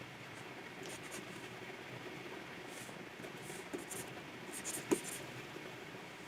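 Wacom pen nib scratching across the drawing surface of a Wacom 24 Pro in short strokes, with one sharp click about five seconds in, over a steady low background hum.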